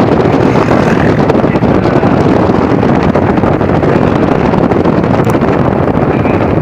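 Loud, steady rush of wind buffeting the microphone, with the running noise of a moving vehicle beneath it.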